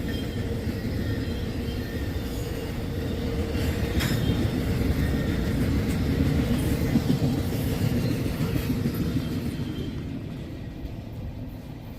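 Rail cars at the tail end of a passing train rolling by, with a steady wheel rumble and a few clicks over the rail joints. It fades away near the end as the last car passes.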